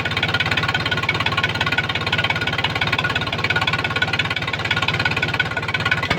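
Tractor engine running steadily, a fast, even chugging with a knocking edge and no change in speed.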